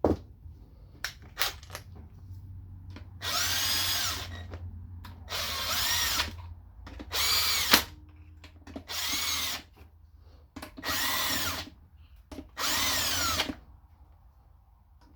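Cordless power driver running in the valve body bolts on a Honda automatic transmission, in six short bursts of about a second each, the motor pitch rising and falling with each run. A few light clicks of bolts being handled come before the first burst.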